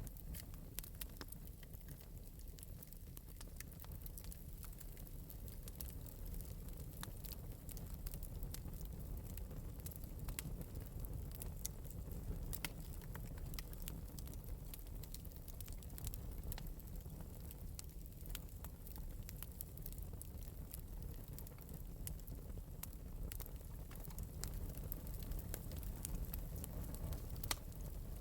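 Wood fire burning in an open metal fireplace, with a steady low rumble of flame and frequent light, sharp crackles and pops scattered throughout.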